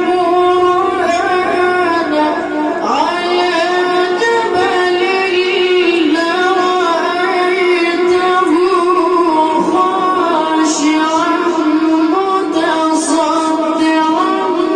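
A child reciting the Quran in a melodic chant, with long held notes and ornamented turns of pitch.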